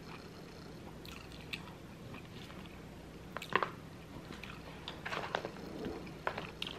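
A person chewing a mouthful of food close to the microphone, with scattered wet mouth clicks and crackles, the sharpest about halfway through. A fork picks through beef bulgogi fries in a foam takeout box.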